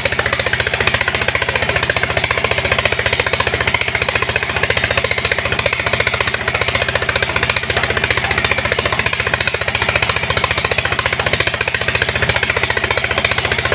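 Engine of a sand-suction pump machine running steadily under load, a loud, rapid, even pulsing that does not change.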